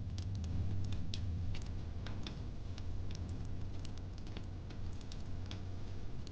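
Fire pit fire crackling, with irregular sharp pops several times a second over a low steady rumble.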